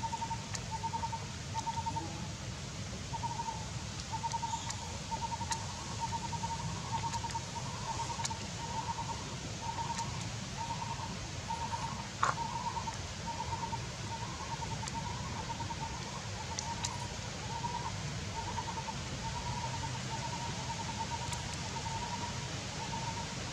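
A bird repeating a single short, even-pitched note, about three notes every two seconds, over a low steady rumble. A sharper click sounds once about halfway through.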